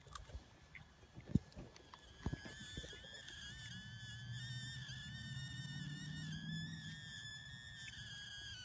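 Steam whistling from the campfire as it is put out: a steady, slightly wavering high whistle that starts a couple of seconds in, over a low rumble.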